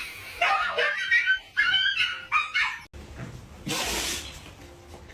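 A dog vocalizing in a quick run of short whining yelps that bend up and down in pitch. They stop abruptly about three seconds in, followed by a short rushing, breathy noise.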